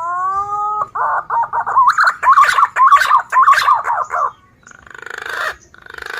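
Green pigeon (punai) calling: a rising whistle, then a fast run of whistled notes for about three seconds, followed by two rougher, buzzier phrases near the end.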